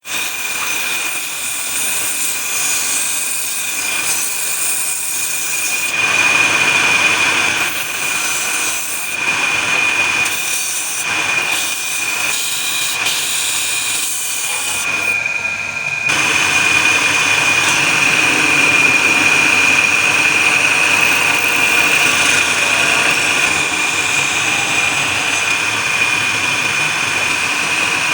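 Wood lathe running with a steady high whine, under the hiss of a turning tool cutting the spinning wood. The sound changes abruptly twice, where the footage is cut.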